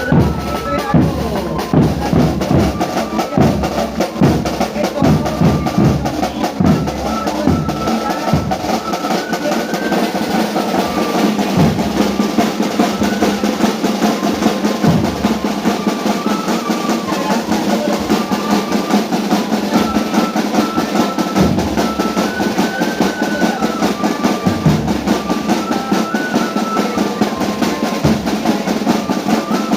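A small procession band playing: snare drum rolls and bass drum beats under a high single-line melody that steps from note to note.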